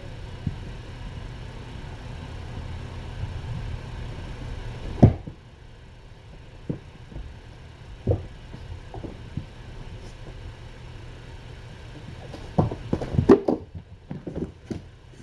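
Scattered dull thumps and knocks in a small room, with a quick cluster of knocks and scuffs near the end; a steady low hum in the background stops about five seconds in.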